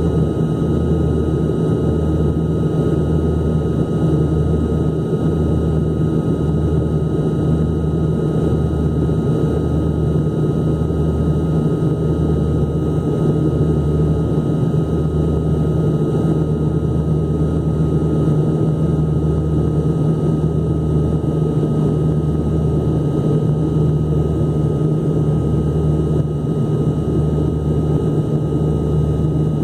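Airliner cabin noise in flight during the descent to landing: a steady engine drone with a low throb that pulses about once a second.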